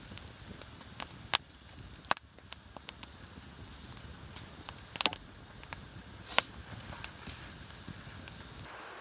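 Wood being chopped: a handful of sharp strikes at uneven intervals.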